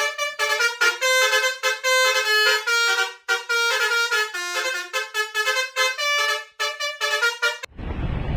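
Indonesian 'telolet' bus horn, a multi-tone air horn playing a quick jingle of short notes that jump in pitch every fraction of a second. Near the end it cuts off suddenly and a loud, even rumbling noise takes over.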